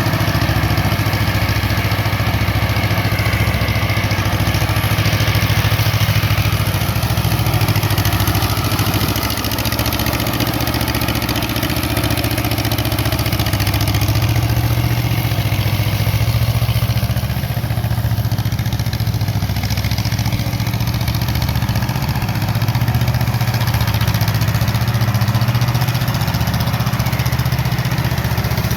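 Wisconsin TJD 18-horsepower air-cooled twin-cylinder engine of a 1963 Yazoo YR60 mower running steadily while mowing grass, with small dips and swells in level.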